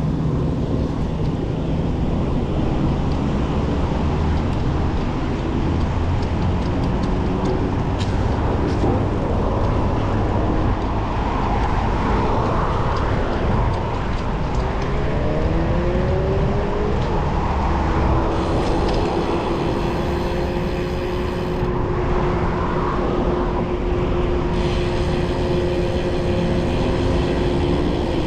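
Wind rushing over the microphone on a moving bicycle, with city road traffic alongside: vehicle engines whose pitch rises and falls as cars and buses pass and pull away.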